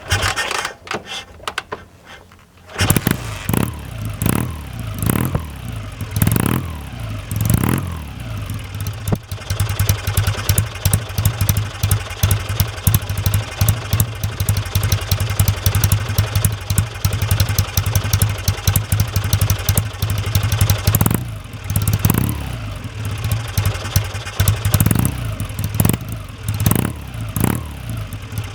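Kawasaki W1SA parallel-twin motorcycle engine: a couple of seconds of clattering knocks, then the engine catches about three seconds in and is blipped several times. It settles to a steady idle from its exhaust, then is revved again in short blips near the end.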